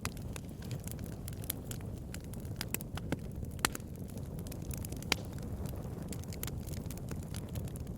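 Campfire burning, a low steady rush of flame under constant crackling and snapping of wood, with a few sharper pops.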